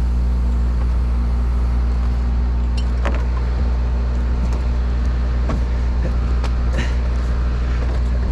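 Bucket truck engine running steadily at a constant speed, with a few faint clicks and knocks over it.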